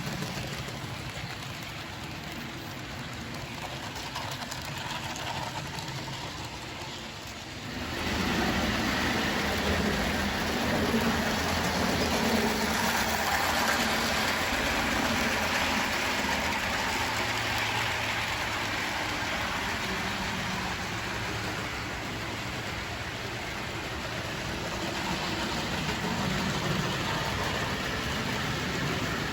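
HO-scale model train running on Kato track, a steady mechanical running sound of motor and wheels on the rails, louder from about eight seconds in.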